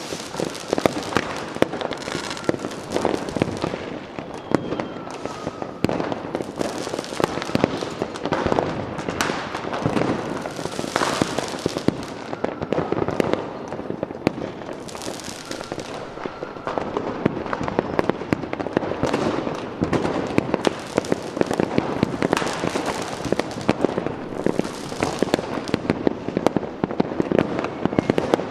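Fireworks going off in a continuous barrage of overlapping bangs and crackling, with louder reports every second or so and a few faint short whistles.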